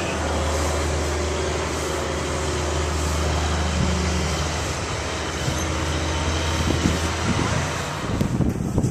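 Heavy engine running steadily with a low drone, which drops away about eight seconds in, leaving wind noise on the microphone.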